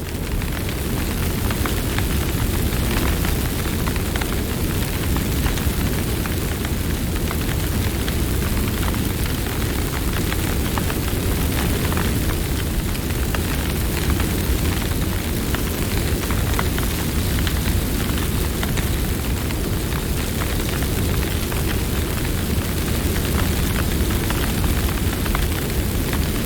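Wood campfire burning: a steady low rush of flames with scattered small crackles and pops throughout.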